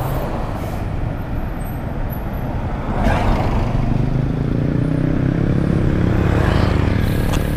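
Road traffic: motor vehicle engines running steadily, with a brief swell of passing-vehicle noise about three seconds in.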